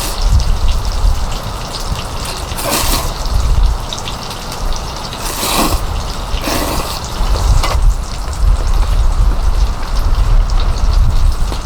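Heavy rain falling steadily, with strong wind buffeting the microphone as a deep rumble and a few brief rushes of louder noise.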